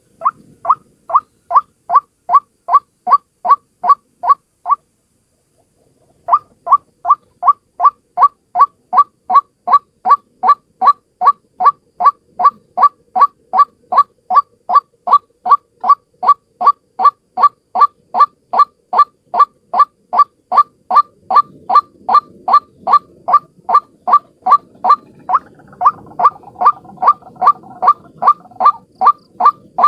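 White-breasted waterhen calling a single short note over and over, about three a second, with a break of about a second and a half about five seconds in. A faint low background noise rises under the calls in the last third.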